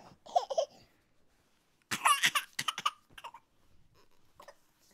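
A high-pitched voice making short bursts of laughing and babbling without clear words, loudest about two seconds in.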